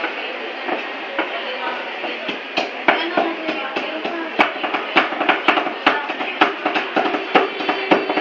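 Cleavers chopping sisig on a wooden chopping board in a rhythmic, drum-like beat: a few scattered strikes at first, then a quick run of chops from about halfway.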